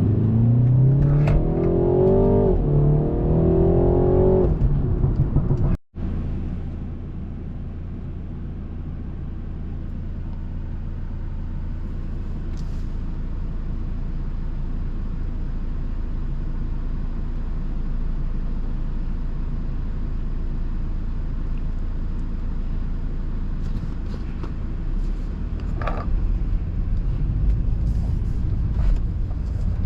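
A tuned BMW 330i's turbocharged four-cylinder engine pulls hard for about six seconds, its pitch climbing and dropping back at each upshift. The sound then cuts off abruptly and gives way to the steady low drone of the car cruising.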